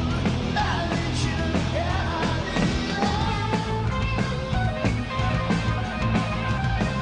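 Live rock band playing with electric guitar, drums and bass, with singing over it.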